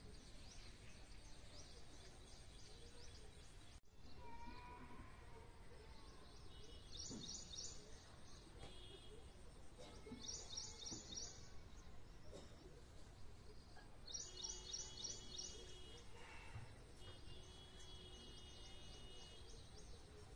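Faint outdoor background with a small bird calling in short, fast, repeated trills, three times a few seconds apart, and a few thin held whistles near the end.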